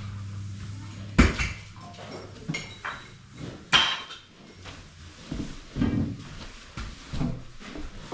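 Metal clanking and knocking: a low hum stops about a second in, then a series of sharp metallic strikes with ringing, two of them much louder than the rest.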